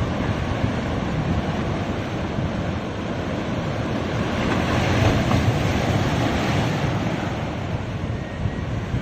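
Sea waves breaking and washing on a beach in a continuous surf wash, swelling a little around the middle, with wind on the microphone.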